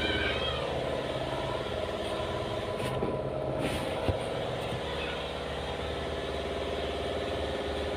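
A motor running steadily, a continuous mechanical hum with an even fine pulse.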